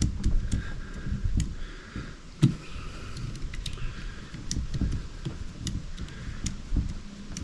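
Scattered small clicks and taps from hands working on quad bike parts while the fuel line is being fitted, with a louder knock about two and a half seconds in, over a low rumble.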